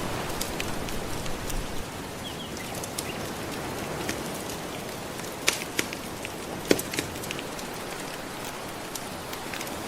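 Wood fire crackling, with sharp pops scattered through and a few louder ones clustered past the middle, over the steady wash of soft ocean waves.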